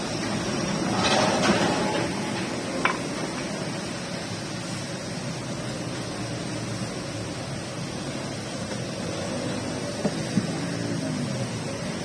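Steady rain falling, an even hiss, with a few short knocks about three seconds in and near the end.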